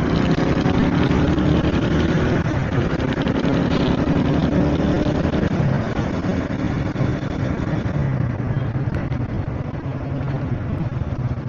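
70cc single-cylinder motorcycle engine running steadily while riding, under a constant rush of road and wind noise.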